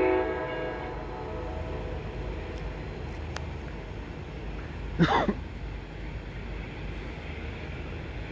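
Freight train passing at speed: a locomotive horn cuts off at the start and dies away, then the train's steady low rumble runs on. About five seconds in comes one short, loud screech that glides in pitch.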